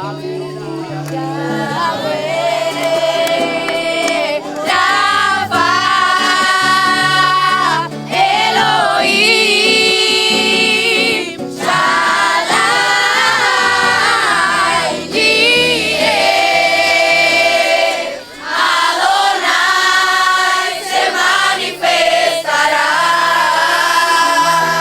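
A group singing a Christian worship song in phrases of a few seconds, over instrumental backing with held bass notes.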